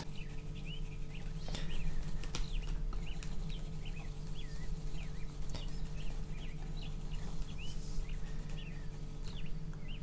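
A small bird chirping repeatedly: short high chirps, about two to three a second and unevenly spaced, over a steady low hum.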